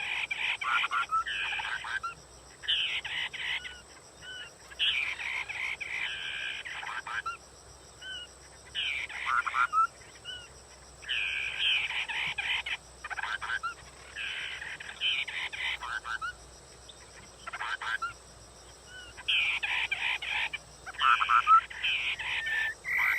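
Song of the hoạ mi đất, a Vietnamese ground-dwelling bird: repeated loud, warbled phrases of one to two seconds each, broken by short pauses, with a faint steady high whine behind.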